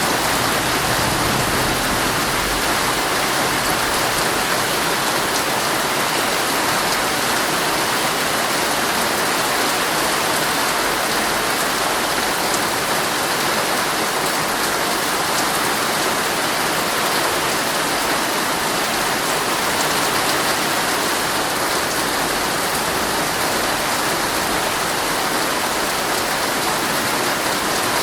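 Heavy rain pattering steadily on a tent's fabric, a dense even hiss of drops.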